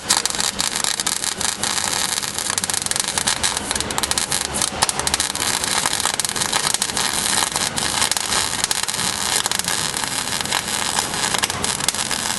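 Electric welding arc crackling steadily as new sheet metal is welded into a pickup truck's cab corner, with a dense run of sharp pops and spatter. The arc runs as one long bead and cuts off just after the end.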